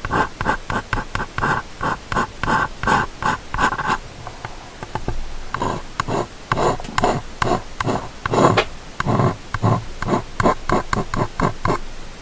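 Close-miked ear-cleaning sounds: an ear-cleaning tool scratching and rubbing against a binaural microphone's ear, in quick strokes about four a second. After a softer pause the strokes resume less evenly.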